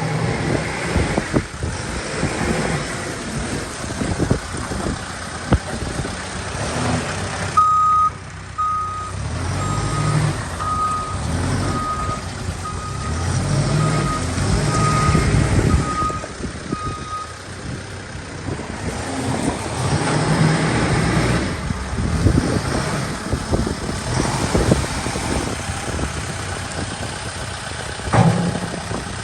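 Case 770FX backhoe loader's diesel engine running and revving up and down as the machine works. Partway through, its reversing alarm sounds a steady run of beeps for about ten seconds.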